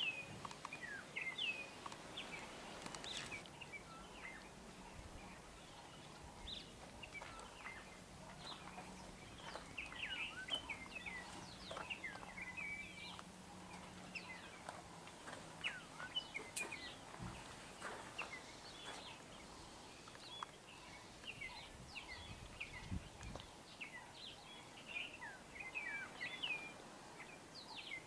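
Small birds chirping and twittering continuously, many short quick calls overlapping, over faint outdoor background noise.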